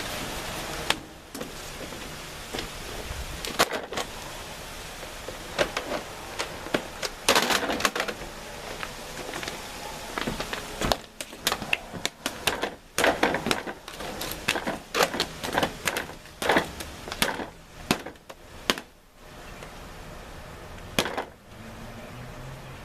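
A run of irregular sharp clicks, cracks and knocks, bunched together about seven seconds in and again through the middle stretch, over a low steady background.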